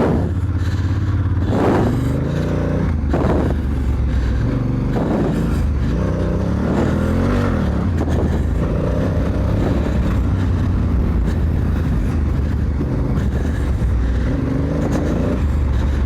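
Honda Africa Twin's parallel-twin engine under load while ridden off-road, its pitch rising and falling again and again as the throttle is opened and closed, with a few sharp revs near the start.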